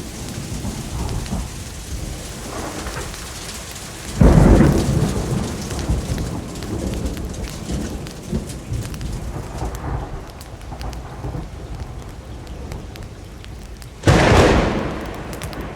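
Steady rain with thunder: two sudden loud claps, about four seconds in and again near the end, each rumbling away over a second or two.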